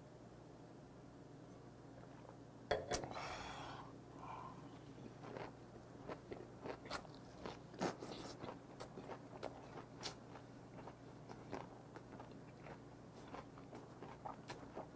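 A person chewing a mouthful of eomnamu shoots (gae-dureup) dipped in chojang, picked up close by a clip-on mic, with irregular crunchy clicks. About three seconds in there is one loud breathy burst before the chewing sets in.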